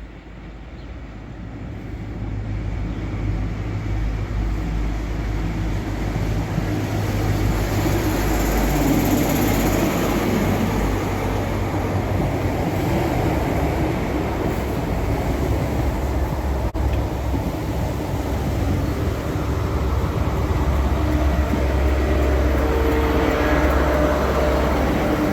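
Diesel train approaching, getting louder over the first several seconds, then running close by with a steady low engine drone and wheel-on-rail noise.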